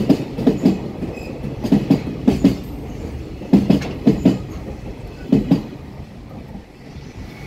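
JR Freight Koki container wagons rolling over a rail joint, their wheels clacking in quick double beats as each bogie crosses, in groups about a second apart. Near the end the clacking pauses.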